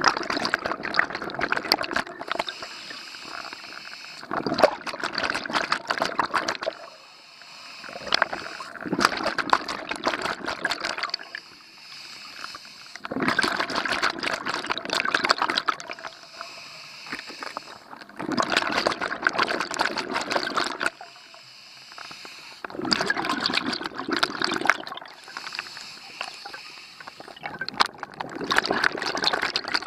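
Scuba diver's exhaled breath bubbling from the regulator underwater, in bursts of crackling bubbles every four to five seconds with quieter inhalations between.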